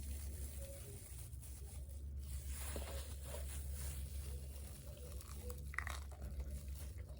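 Close-up crunching, biting and chewing of crispy fried chicken and fries, with some crinkling and tearing.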